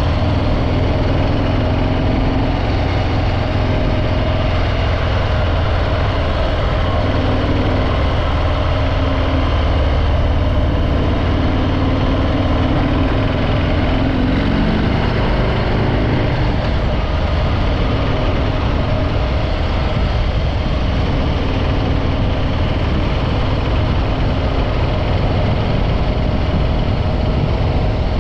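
Harley-Davidson Breakout 114's Milwaukee-Eight 114 V-twin running steadily through its stock exhaust, with slight shifts in engine pitch around the middle.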